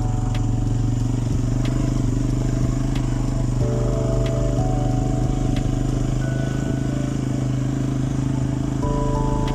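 Single-cylinder engine of an Italika TC-250 motorcycle running steadily under way. A few faint higher tones come and go over it.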